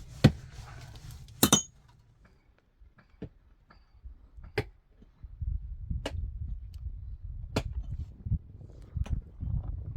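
Sharp knocks and clinks every second or so. The loudest comes early and has a brief metallic ring. A low rumble sets in about halfway.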